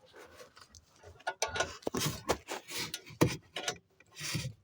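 Anchor bolts of a steel chimney wall bracket being tightened with a wrench: irregular metallic clicks and knocks with short scraping rubs.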